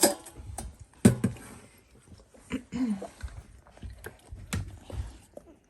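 Sixteen-day-old Dalmatian puppies shuffling and making small noises, with scattered clicks and knocks throughout and a short whine that rises and falls about three seconds in.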